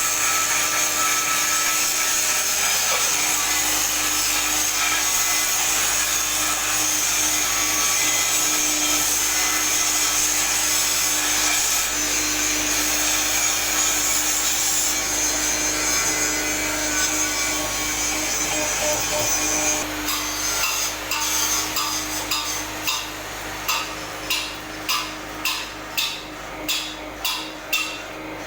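Workshop tool noise: a steady harsh rubbing or grinding sound for about twenty seconds, then a run of about nine regular short strokes, roughly one and a half a second, near the end.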